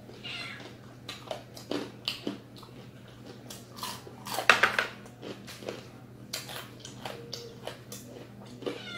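Close-up chewing and biting of crispy fried chicken skin: a string of sharp crunches, the loudest cluster about halfway through, over a steady low hum.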